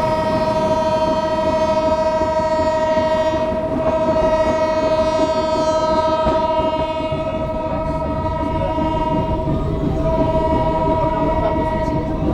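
Diesel locomotive horn sounding one long, steady multi-note chord that stops near the end, over the rumble of the moving train.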